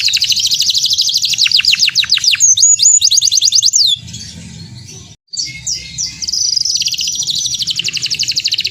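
Domestic canary singing a loud, fast song of rapid trills and quick downward-sweeping notes. It breaks off about four seconds in, then resumes a second or so later with a long rapid trill.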